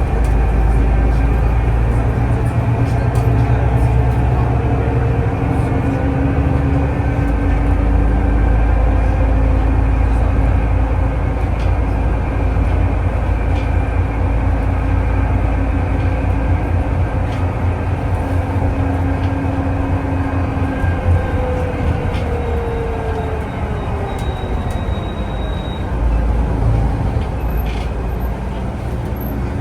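Steady running rumble heard from inside a moving public-transport vehicle on a city route, with a faint motor whine that slowly rises and falls in pitch.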